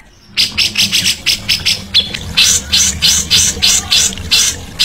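Songbird giving rapid runs of harsh, repeated chattering notes, about five a second, starting after a brief silence.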